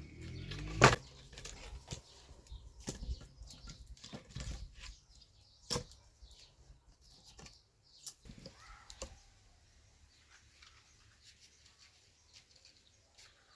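Scattered clicks, taps and knocks of utensils or food being handled, the loudest a sharp knock about a second in, then sparser taps fading toward the end.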